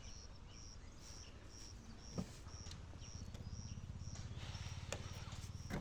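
Faint, short high-pitched chirps repeating evenly about twice a second, over a low rumble, with a knock about two seconds in.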